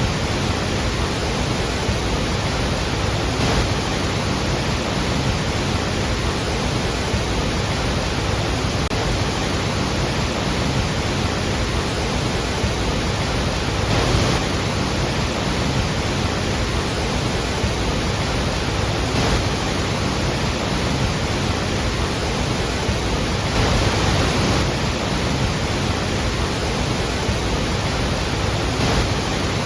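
Iguazú Falls' large waterfall crashing, a steady, loud rush of falling water with deep rumble and hiss.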